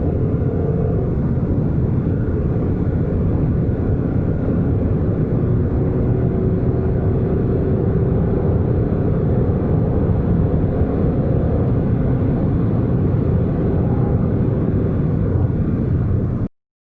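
Škoda Superb's 2.0 TDI four-cylinder turbodiesel pulling steadily at high speed, mixed with road and wind noise; the sound cuts off abruptly near the end.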